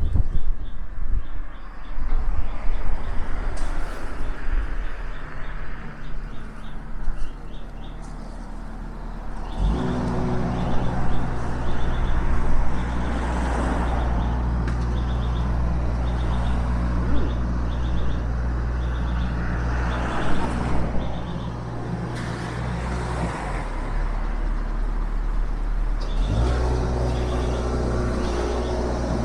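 Road traffic passing, then a nearby engine running with a steady low hum from about ten seconds in; the engine cuts out for a few seconds near the end and comes back.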